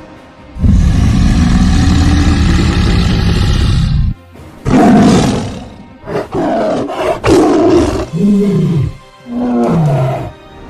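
Tiger roaring: one long roar of about three and a half seconds, then a string of shorter roars and growls, several falling in pitch. Music plays underneath.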